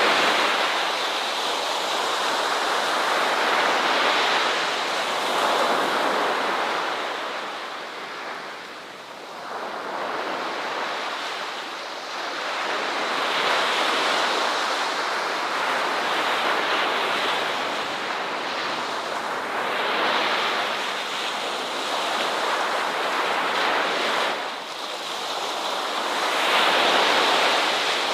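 Ocean waves breaking and washing on a shore, a steady rush of surf that swells and ebbs every few seconds.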